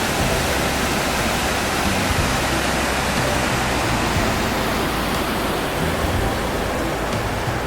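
Waterfall on a powerful river, its water rushing with a steady, loud roar.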